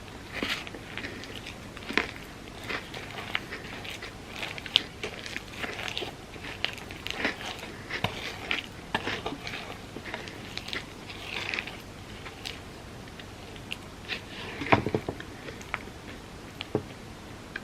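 Close-miked eating of a Biscoff cookie-butter sundae: crisp crunching bites and wet chewing, with many small crackles in quick, irregular succession.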